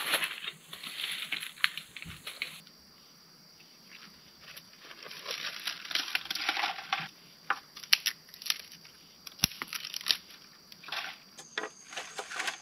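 Dry bark, leaves and small twigs crunching and crackling as they are gathered and broken up for kindling. The crackling comes in bursts, with a quieter stretch about two seconds in and scattered sharp snaps later.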